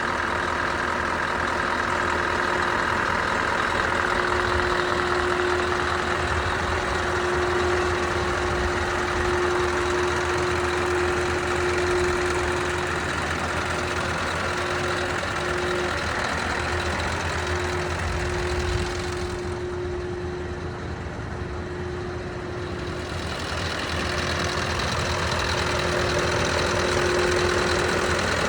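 2013 Scania R620 tipper truck's V8 diesel engine idling steadily, with a steady whine over it. The sound turns duller for a few seconds about two-thirds of the way in.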